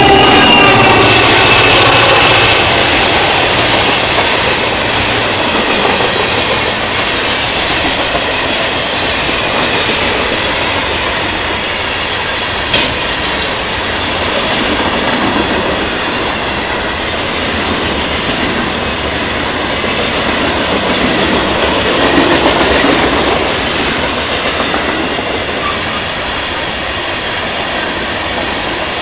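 Freight train passing close by: the diesel locomotives go by first with a tone that falls in pitch over the first couple of seconds, then a steady rumble and rattle of freight cars rolling over the rails.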